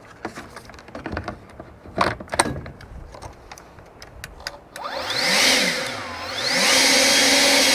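A few handling clicks and knocks, then about five seconds in the EGO LB5302 battery leaf blower's fan spins up with a rising whine. It eases off briefly, then winds back up and runs steadily at high speed with a loud rush of air.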